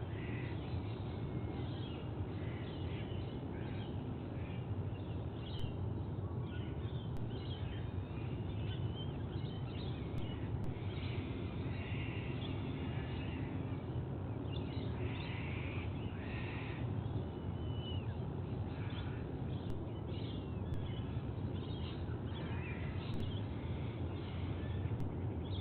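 Scattered bird chirps and short calls over a steady low rumble of background noise.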